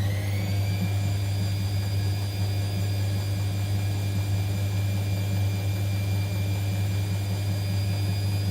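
Whirlpool washing machine spinning on its 400 rpm delicate spin, the motor whine rising and levelling off about half a second in, then running steadily over a deep hum.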